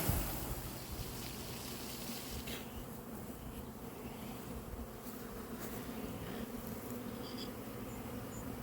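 A swarm of honey bees, just shaken from a tree, buzzing in a dense, steady hum. It opens with a brief loud rustle of the tree being shaken.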